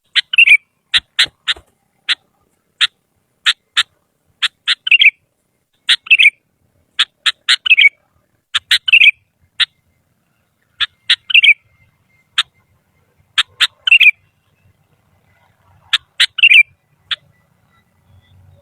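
Sooty-headed bulbul (kutilang) singing loudly. Short sharp notes come in quick phrases, many of them ending in a slurred note, and the phrases repeat about every second with a few brief pauses.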